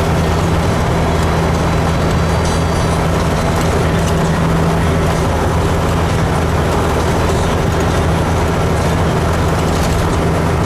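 Kenworth truck driving, heard inside the cab: a steady low diesel engine drone with road noise, even and unchanging.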